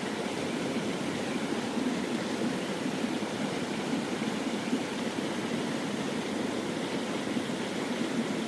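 Mountain stream water rushing over rocks: a steady, even rush with no breaks.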